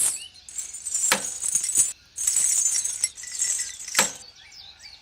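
Light clinking with two sharp clicks, about a second in and near the end, over a faint high hiss.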